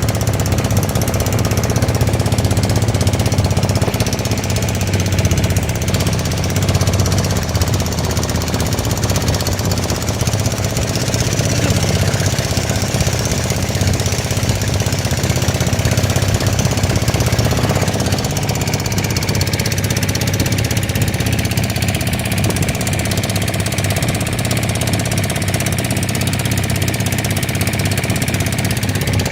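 Motorboat engine running steadily and loud, with a fast, even pulsing.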